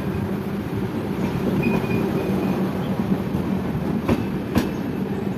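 Passenger train running: a steady rumble with wheels clacking over rail joints, and two sharp knocks about four seconds in.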